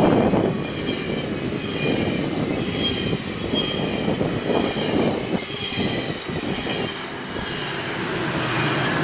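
GO Transit commuter train passing close by: a steady rumble and rush of wheels on rail, with faint high-pitched wheel squeals coming and going.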